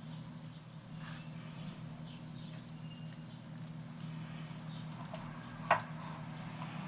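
Scattered light taps and clicks, with one sharper, louder click near the end, over a steady low hum.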